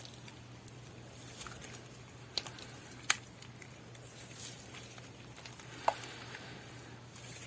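Slime being handled quietly: soft squishing with three short sticky pops or clicks, the sharpest a little past the middle, over a low steady hum.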